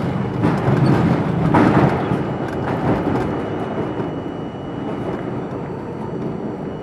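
R42 subway train running on the rails, a steady rumble of wheels and motors, loudest about one to two seconds in and easing a little after.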